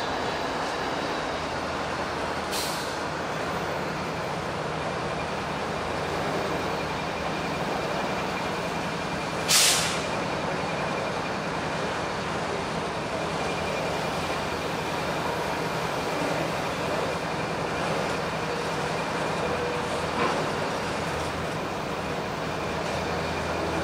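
Train running at close range, with a steady rumbling noise and three brief hisses of air, the loudest about ten seconds in.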